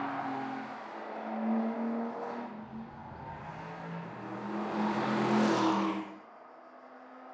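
Porsche Panamera 4S E-Hybrid's twin-turbo V6 running hard, its note stepping in pitch, then swelling loudest as the car passes about five seconds in before cutting off suddenly about six seconds in.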